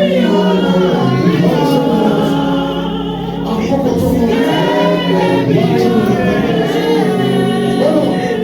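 Choir singing a gospel hymn in Yoruba, with long held notes.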